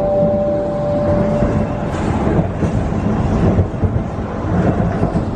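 Tokaido Shinkansen train running at speed, heard inside the passenger car: a steady, loud rumble with a rushing hiss over it. The last note of the onboard chime fades out in the first second or so.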